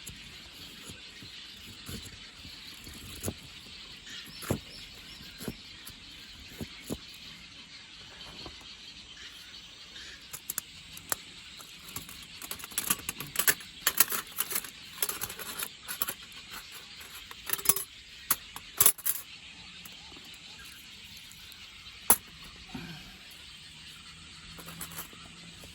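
Irregular light clicks, knocks and metallic clinks of objects being handled, bunched together in the middle with one sharper knock later, over a steady faint high hiss.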